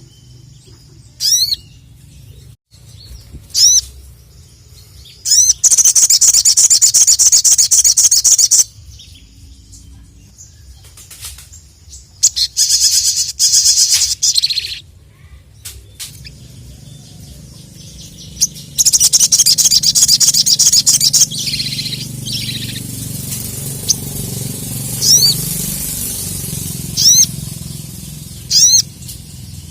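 Sogon (sogok ontong) songbird singing in full voice: short, sharp high chirps every couple of seconds, broken by three long, loud, rapid trills. Its song is loud and excited, the kind used to call out a rival.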